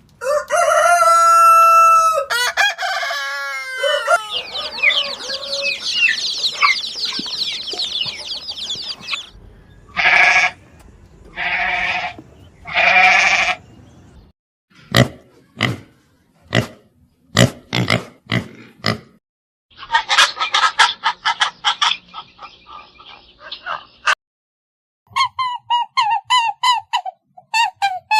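A string of separate bird and animal calls. A drawn-out pitched call comes near the start, then several seconds of rapid high chirping and three loud harsh calls. A run of sharp clicks follows, and quick repeated clucking calls close it.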